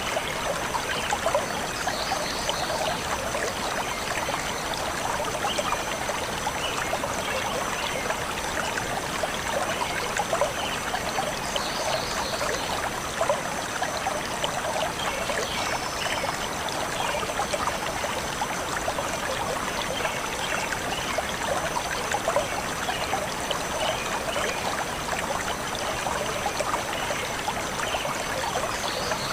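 Stream water flowing steadily, with a few faint bird chirps now and then.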